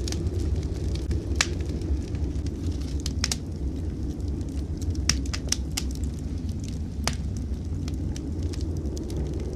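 Wood fire in a fireplace crackling, with sharp pops scattered through and a quick cluster of them a little past the middle, over a steady low rumble.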